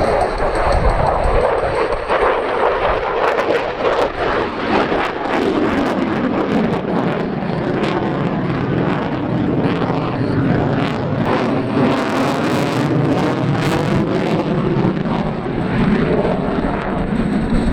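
Loud jet noise from an F-22 Raptor's twin Pratt & Whitney F119 turbofan engines as the fighter manoeuvres in a display flight, with a harsh crackling through much of the middle stretch.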